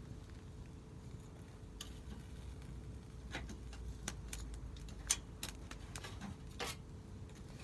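Wood fire crackling, with irregular sharp pops, the loudest about five seconds in, over a low steady rumble of the burning.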